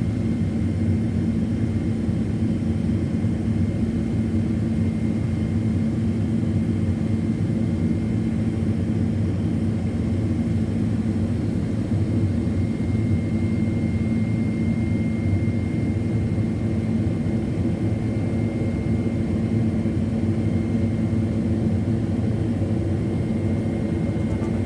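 Steady drone of a Boeing 767-400ER's jet engines and rushing airflow, heard from inside the passenger cabin after takeoff, with a faint steady high-pitched tone over it.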